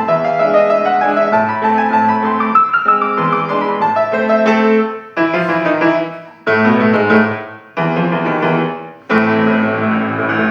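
Solo piano playing a lively Ukrainian folk-dance piece (a shumka). Partway through comes a run of four loud, detached chords, each cut off sharply with a short gap, before full playing resumes near the end.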